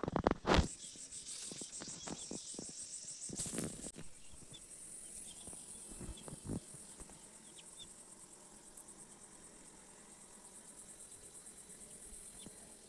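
Insects chirping in a continuous high-pitched, finely pulsing trill. A few sharp knocks come at the start and again about three and a half seconds in.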